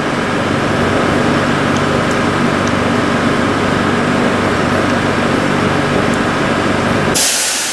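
LarsLap Model C1 valve grinder running steadily with a constant hum as it grinds a valve bore. About seven seconds in the machine sound cuts off and a loud hiss takes over.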